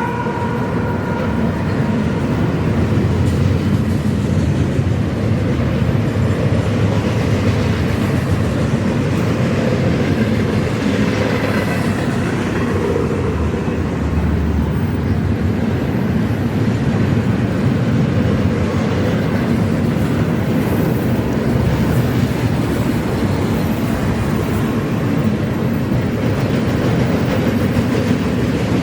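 Freight train rolling past close by: a steady rumble with wheel-on-rail clatter. A horn chord dips slightly in pitch and fades out just at the start.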